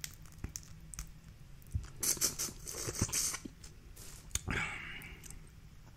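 Boiled crawfish being cracked and peeled by hand: scattered small cracks and clicks, with two denser bursts of crackling shell about two and four and a half seconds in.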